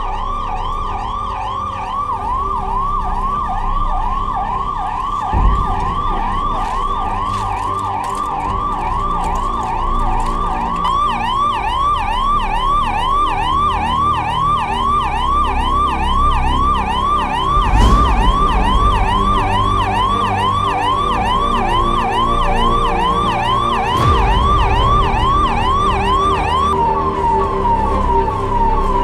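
Emergency-vehicle siren in a yelp pattern: quick rising sweeps, about two a second. Near the end it switches to a faster, flatter warble. A few sharp knocks sound beneath it.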